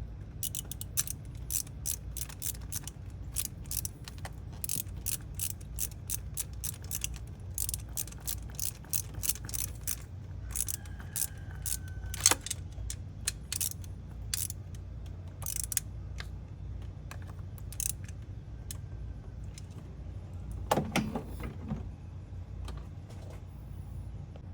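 Socket ratchet clicking in quick runs of short clicks as bolts are worked, with a louder metallic clank near the end, over a steady low hum.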